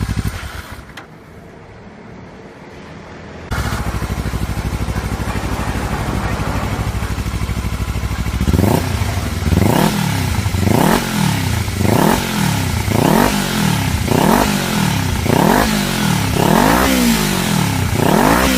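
Kawasaki Ninja 400R parallel-twin engine breathing through an aftermarket slip-on muffler, idling. The sound drops away for a couple of seconds, then the idle returns abruptly. From about halfway through, the throttle is blipped about once a second, each rev rising sharply and falling back to idle.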